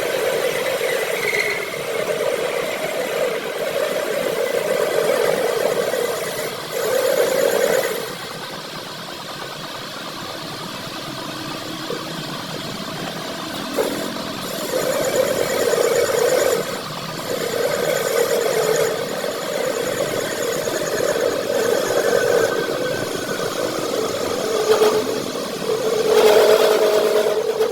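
Metal lathe running while machining a steel gear shaft, a steady motor-and-cutting drone that swells and eases as the cut goes on, loudest near the end.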